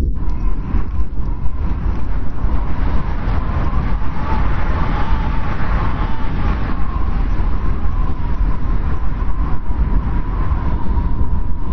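Blizzard wind blowing hard: a steady deep rumble with a thin, wavering whistle over it that swells around the middle.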